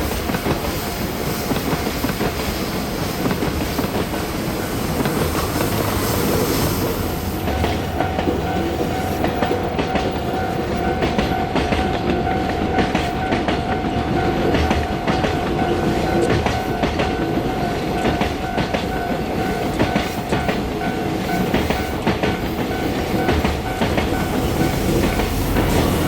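Train running on the rails, its wheels clacking over the rail joints. A steady tone joins in about seven seconds in and holds.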